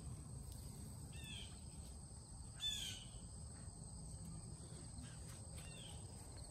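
Faint garden ambience: a small bird gives a few short, falling chirps, about a second in, again near three seconds and faintly near the end. Under them runs a steady high insect drone and a low wind rumble.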